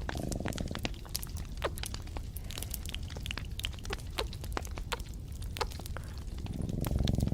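Close-miked ASMR trigger sounds: scattered sharp clicks and crackles over a steady low rumble, with a louder low rumbling swell near the end.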